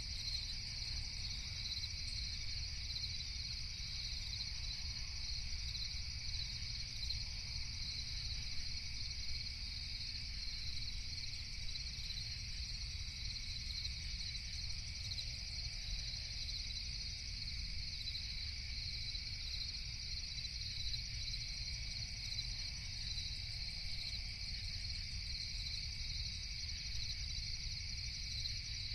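Night chorus of crickets: a steady, unbroken high trill, over a constant low rumble.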